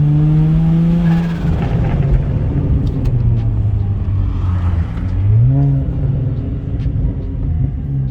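Single-turbo BMW 335i N54 inline-six with a ball-bearing Garrett GTX3582R turbo and screamer pipe, accelerating: the engine note rises for about a second, then a rush of noise comes in as the pitch drops, and it revs up again briefly about five seconds in.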